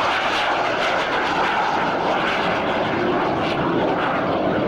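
Fixed-wing aircraft engine running steadily as the airplane flies, a continuous even noise with no clear pitch.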